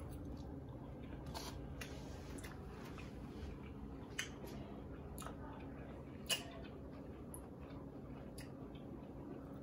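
Quiet chewing of a bite of pan-cooked portobello mushroom steak, with a few faint mouth clicks over a low steady room hum.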